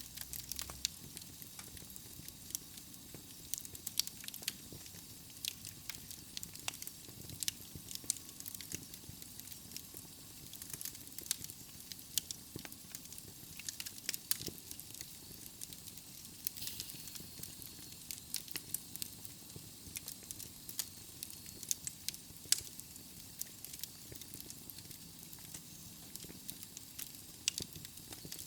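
Wood fire burning in a fireplace: logs crackling with frequent irregular sharp pops over a steady soft hiss.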